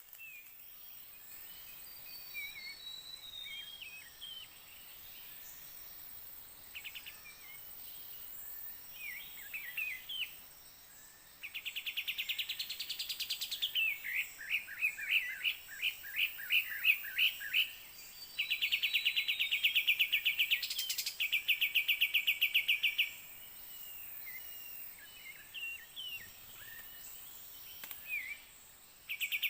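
Forest birds calling and singing: scattered high chirps and whistles, a run of loud, quickly repeated falling notes, and long rapid pulsing trills that start and stop in bursts.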